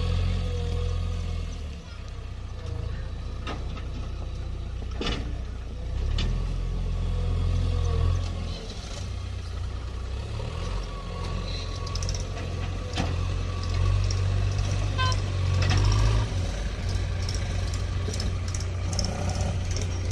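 Heavy diesel machinery at work, the engine note rising and falling as it comes under load, with a few sharp knocks.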